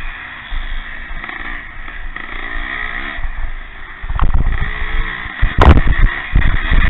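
Pre-1965 motocross motorcycles racing, engines revving up and down as they go by. Loud low bursts come in the second half.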